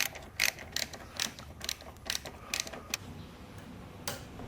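Ratchet wrench clicking about four times a second as it backs out carburetor mounting bolts, stopping about three seconds in, with one more click near the end.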